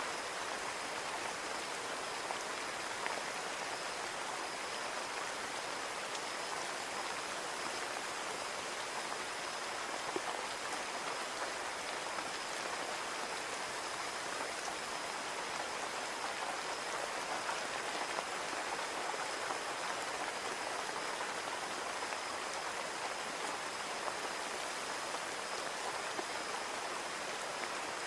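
Steady rain falling on a window pane: an even hiss with scattered small drop ticks.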